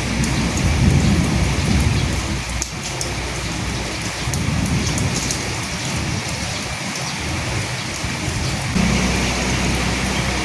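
Steady rain falling, with a low rumble swelling over the first couple of seconds. A steady low hum comes in near the end.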